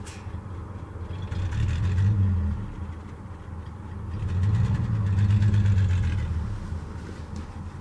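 Worn straight-six engine of a 1966 GMC pickup running, revved up twice, each rev swelling and then dropping back toward idle.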